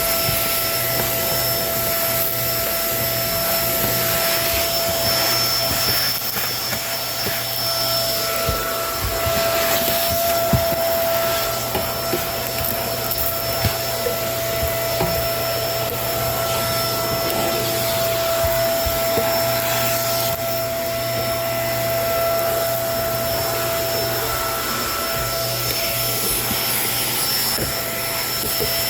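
Kenmore vacuum cleaner running steadily with a motor whine and airflow rush, a few sharp clicks breaking through now and then.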